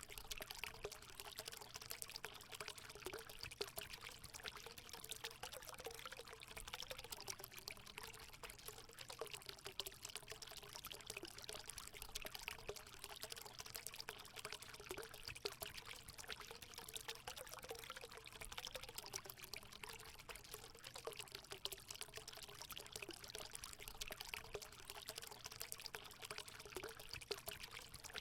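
Natural water running steadily into a hot spring pool: a continuous pouring trickle with a wavering gurgle.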